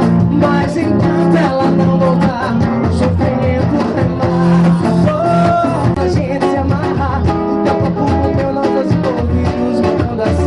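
Live band music: a small group playing with guitar and a singing voice, at a steady beat.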